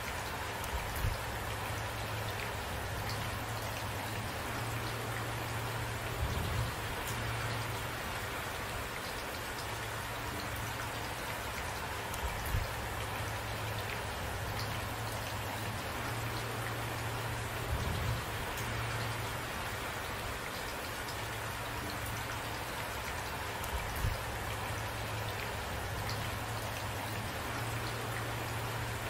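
Steady rain falling on a surface, with a short low thud recurring about every six seconds.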